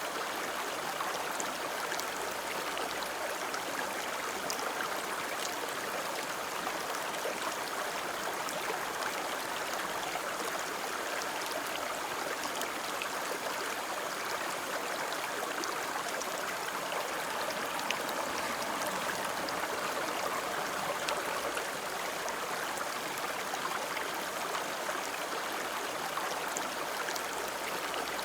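River water flowing in a steady, even rush, flecked with small splashes and drips.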